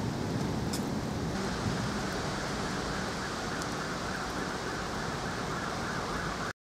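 Steady rain hissing during a thunderstorm, with no thunder clap; it cuts off suddenly near the end.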